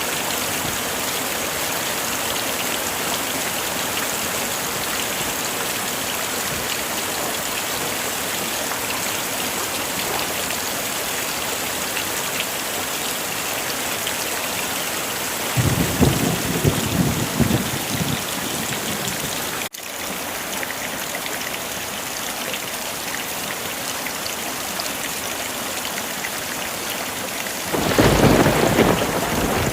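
Heavy rain falling steadily, with two rolls of thunder rumbling in, one about halfway through and one near the end.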